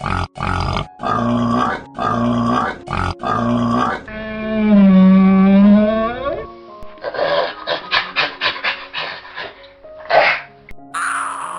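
Bison calls: four short grunts, then one long bellow, then a quick run of short grunts.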